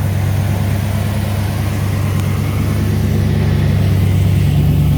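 5.7-litre small-block V8 of a GM OBS pickup idling steadily, its low note stepping up slightly near the end.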